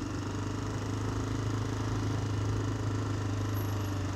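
Motorcycle engine, the rider's own Honda XR, running steadily with a low, even hum and no change in pitch.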